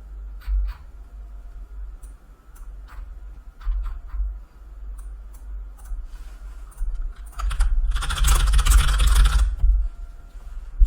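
Scattered clicks of a computer keyboard and mouse, with a denser, louder run of clattering about seven and a half seconds in that lasts around two seconds.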